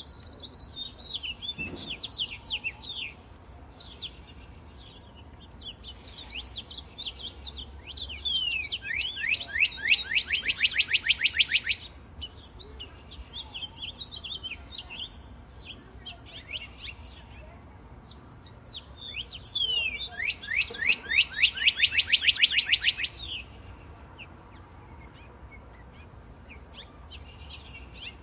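Several songbirds chirping and calling, with a loud, rapid trill of quickly repeated notes, about nine a second, lasting about four seconds a third of the way in, and another lasting about three seconds past the middle.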